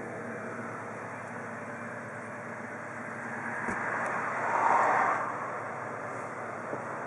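Steady vehicle engine noise, with a swell of noise that rises and fades about four to five seconds in and a single click just before it.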